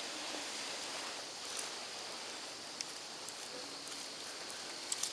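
Quiet outdoor background: an even, faint hiss with a few small clicks.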